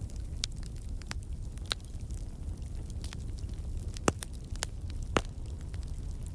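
Wood campfire crackling, with irregular sharp pops and two louder snaps about four and five seconds in, over a low steady rumble of the flames.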